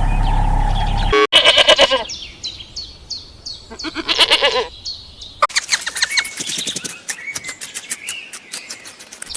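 A steady hum that cuts off about a second in, then a string of animal calls, several in turn: short pulsed calls, a row of short falling chirps about two a second, and rapid chirping near the end.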